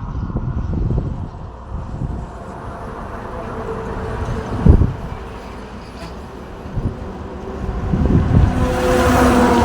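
Road traffic going by: a low rumble of engines and tyres with one sharp thump about halfway through, then a vehicle's engine growing louder near the end as it approaches.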